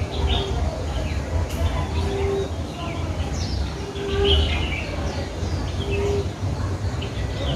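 Captive birds calling: one bird gives a short, low, single-note call about every two seconds, while other birds chirp and twitter in higher voices. A steady low rumble runs underneath.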